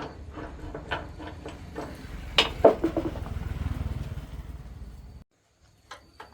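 A motor running with a steady low hum under scattered clicks and knocks, the loudest a pair of knocks about two and a half seconds in; everything cuts off abruptly about five seconds in.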